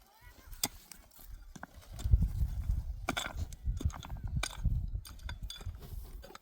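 Irregular sharp knocks, a few seconds apart, over a low rumble that sets in about two seconds in.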